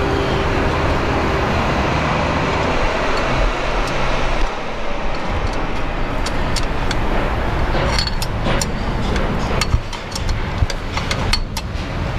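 Metal tools and parts clicking and clinking, more often in the second half, over a steady background noise.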